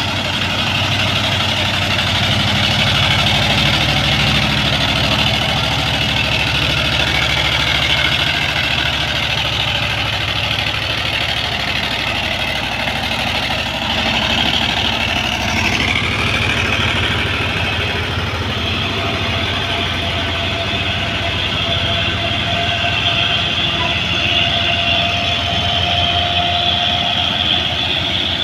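Heavy truck engine running steadily at low speed on a hill climb, a loud pulsing low throb. About halfway through, the pitch shifts briefly.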